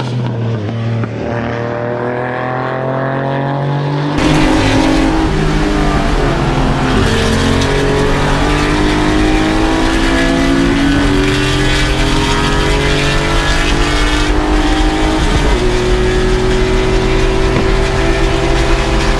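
Race car engine pulling hard through the gears, its pitch climbing steadily and dropping sharply at each of three upshifts. About four seconds in, the sound abruptly gets louder, with added rushing hiss.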